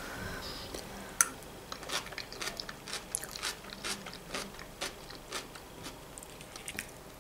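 Person chewing food close to the microphone: soft crunches and wet mouth clicks, roughly two a second, with one sharper click about a second in.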